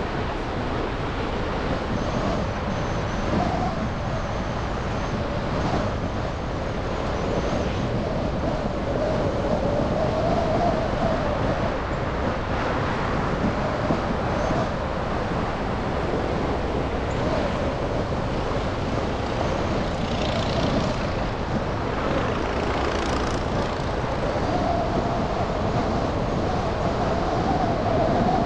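Car driving through city traffic: steady road and engine noise with a hum that wavers slightly up and down.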